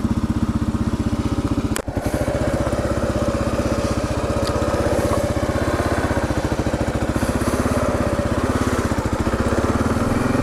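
Kawasaki KLR 650's single-cylinder four-stroke engine running steadily with an even, fast pulse.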